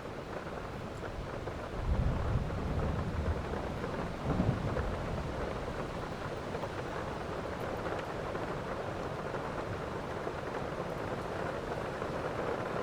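Steady heavy rain with a rumble of thunder starting about two seconds in, swelling again about four and a half seconds in, then fading back under the rain.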